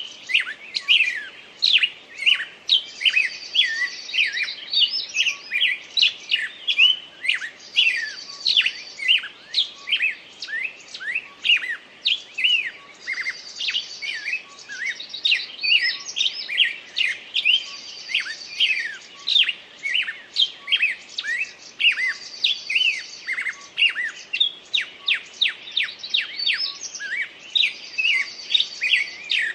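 Songbirds singing: a steady stream of quick chirps and sweeping notes, with a higher buzzy trill returning every two to three seconds.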